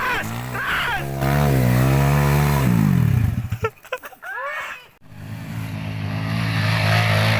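Kawasaki KLX trail bike's single-cylinder four-stroke engine on its stock exhaust, held at high revs, then the revs fall away about three seconds in and it goes nearly quiet for a couple of seconds, with a few short sliding high sounds in the lull. The engine then picks up again and is revved steadily higher toward the end.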